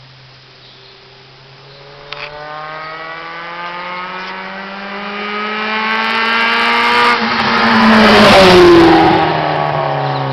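Honda Civic's 1.3-litre D13B2 four-cylinder with no muffler, accelerating toward the listener: the engine note climbs in pitch and grows steadily louder from about two seconds in, is loudest around eight seconds in as the car goes by, then drops slightly in pitch and fades a little. A steady low hum runs underneath.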